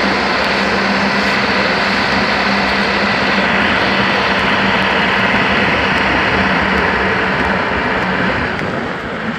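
A truck running on the road: a steady engine drone with a constant low hum under a broad rushing noise, easing a little near the end.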